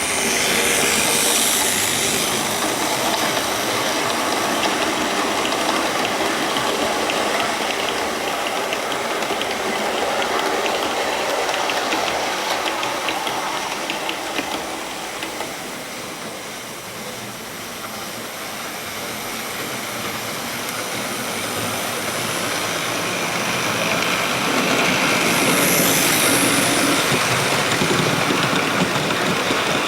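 Hornby OO-gauge model train running around the layout, an LMS 8F and 3F double-heading six carriages: motor whirr and wheels clicking over the rail joints. It fades in the middle as the train goes round the far side of the loop and grows louder again near the end as it comes back past.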